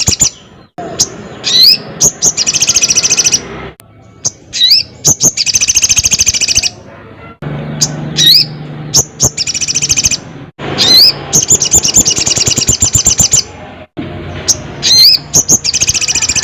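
Crimson sunbird (sogon) singing loudly: sharp upward-sweeping call notes, each followed by a fast, high trill of rapid notes, repeated about five times.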